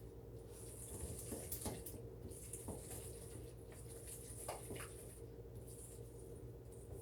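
Faint wet squelching and scraping of a sticky oat, grated carrot, apple and molasses dough being stirred in a bowl, in short irregular strokes over a steady low hum.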